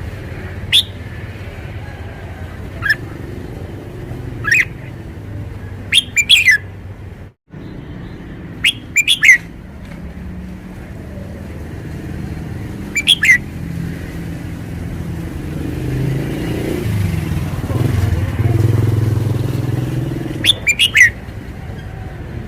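Red-whiskered bulbul singing loud, short whistled phrases, repeated every few seconds, some as quick double or triple notes. A low motor rumble runs underneath and swells in the second half.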